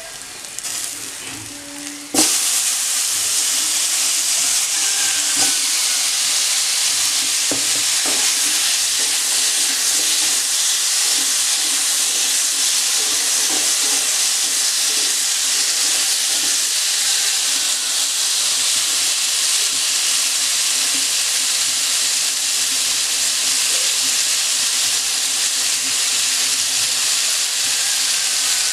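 Potato slices going into hot oil in a metal wok: the soft sizzle jumps to a loud, steady frying sizzle about two seconds in. It runs on while a spatula stirs them, with a few light knocks and scrapes against the pan.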